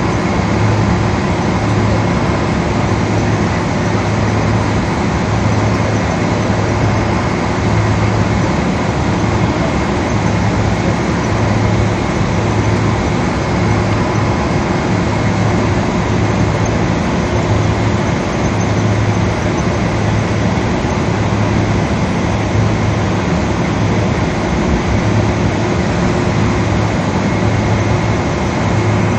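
Steady cabin noise inside a Boeing 777: jet engine and airflow noise with constant hum tones, and a low hum that swells and fades every second or so.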